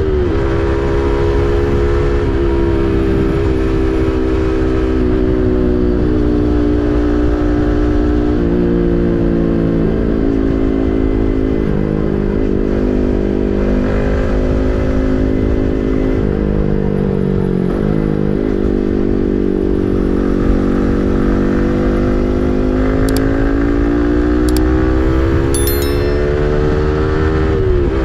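Yamaha MT-15's single-cylinder engine through an SC Project full-system exhaust, ridden on the road. The revs step up and down through gear changes, sag in the middle, then climb steadily before dropping sharply near the end at a shift.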